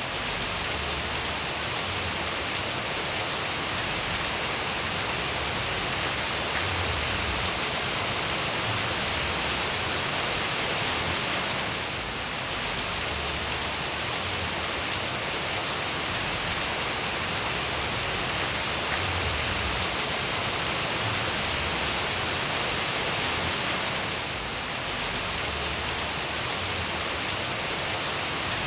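Steady rain falling, an even hiss with no single drops standing out. The level dips slightly for a moment about every twelve seconds.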